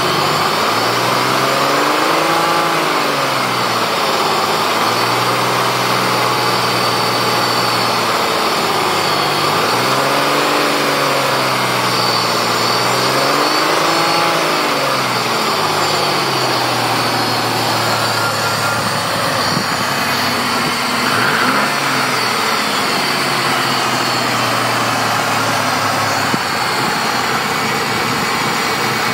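Supercharged GM 3800 Series II V6 idling, revved gently up and back down three times in the first half, then settling to a steady idle. It is being run to check for a knock, which the owner thinks may come from the flywheel area.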